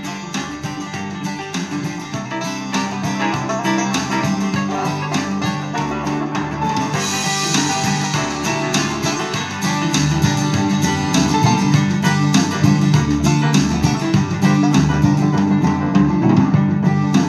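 Music with guitar playing from the Eton Field BT Grundig Edition radio's speaker, tuned to an FM station. Its tone shifts as the bass and treble controls are turned: deep bass comes forward about six seconds in, and the music grows louder about ten seconds in.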